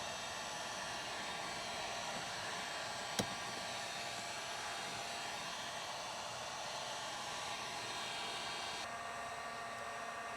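Heat gun blowing steadily, a hiss with a thin whine. A single sharp click comes about three seconds in.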